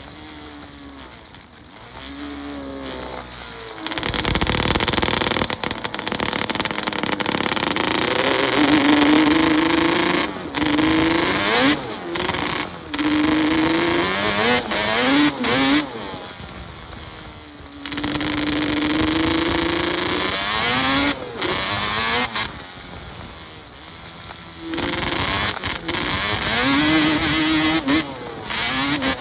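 Yamaha Banshee 350's twin-cylinder two-stroke engine revved in repeated bursts, the pitch climbing and falling back between blips of the throttle.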